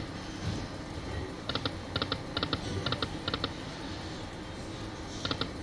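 Poker machine clicking in quick little bursts of two or three ticks, repeating irregularly, over a low steady background hum.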